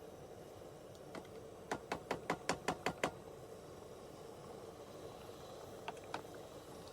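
A quick run of about eight light clicking taps over a steady low hum, with a few fainter ticks before and after.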